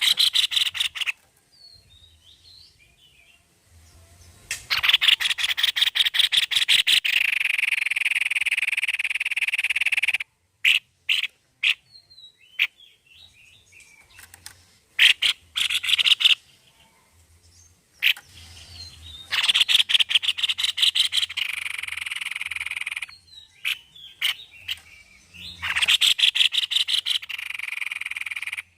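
White-necked babbler singing in repeated bouts of fast, rattling trills, each a few seconds long, with short single notes between the bouts.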